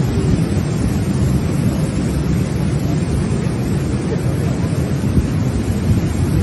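Steady low wind rumble buffeting the microphone on a moving motorcycle, with the bike's road and engine noise mixed in.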